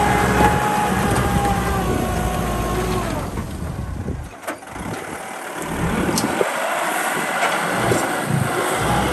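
Kubota M6040 SU tractor's diesel engine running steadily as it works the field; about three seconds in its sound drops away sharply, then builds back up from about six seconds.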